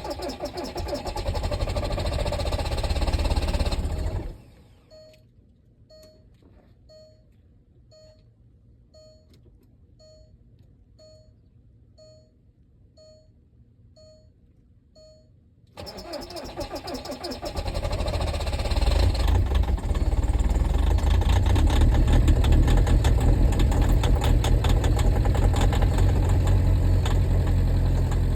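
Volkswagen Beetle TDI diesel engine cold-started at about 15°F. About four seconds of cranking stops abruptly. A quiet stretch follows with a faint short beep about once a second. Then the engine is cranked again, catches, and settles into a loud, steady clattering idle.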